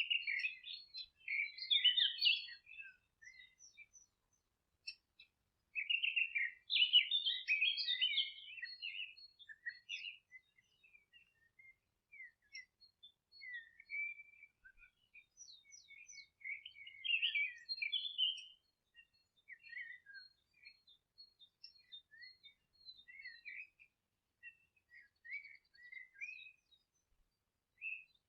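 Songbirds chirping and singing in short, high-pitched phrases and trills, coming in busy bursts near the start, about a quarter of the way in and past the middle, sparser in between.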